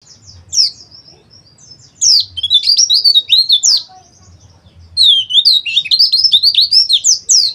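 White-eye (pleci) song: rapid, high-pitched twittering chatter of quick sliding notes, in two long bursts starting about two seconds in and again about five seconds in, after a single short call near the start.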